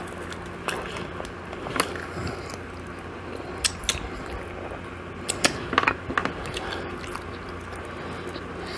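A person chewing and biting food close to the microphone: scattered short crunchy clicks, bunched together about five to six seconds in, over a faint steady low hum.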